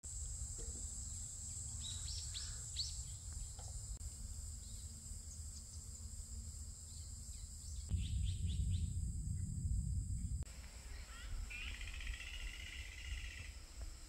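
Outdoor rural ambience: birds give short chirps a couple of seconds in and again around eight seconds, and a trill near the end, over a steady high hiss and a low rumble.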